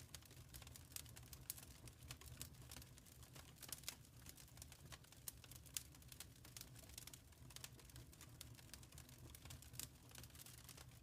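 Faint wood fire crackling in a fireplace: irregular sharp pops and snaps over a low steady rumble, with one sharper snap near the middle.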